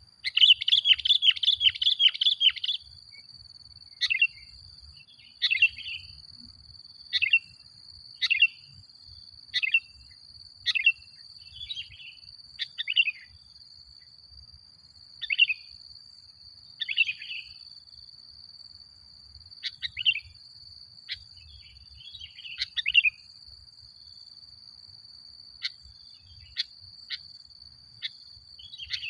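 Male sooty-headed bulbul (kutilang) calling: a rapid chattering run of notes for the first couple of seconds, then short separate chirps about every one to two seconds. A thin, steady high tone runs underneath.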